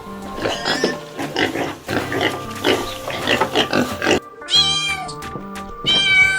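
Animal calls over background music: a run of rough, rapid grunting calls for about four seconds, then two drawn-out pitched cries near the end.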